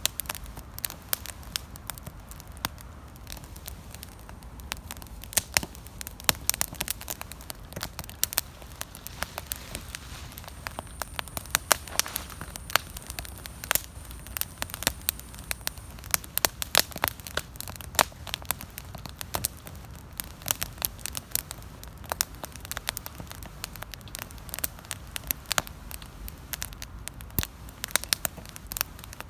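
Wood campfire burning, crackling and popping with many irregular sharp snaps over a low steady rumble of the flames. A faint high steady tone sounds for a few seconds around the middle.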